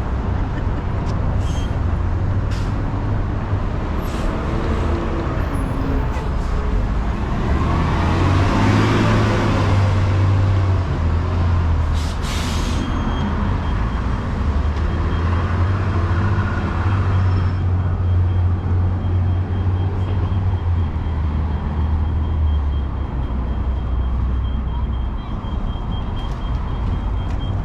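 Street traffic dominated by a heavy road vehicle's low engine rumble, which swells as it passes, with a brief hiss about twelve seconds in.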